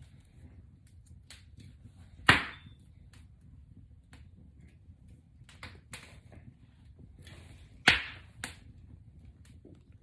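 Box braids being taken down by hand: faint crackling and rustling of braided hair, with two sharp snaps about five and a half seconds apart and a weaker one just after the second.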